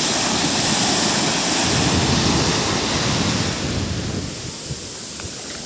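Ocean surf washing onto a beach, louder for the first three seconds or so, then easing off.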